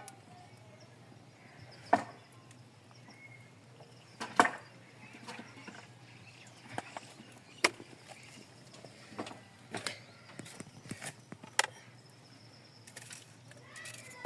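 Sharp single knocks, one roughly every two seconds, irregularly spaced, over a faint steady low hum.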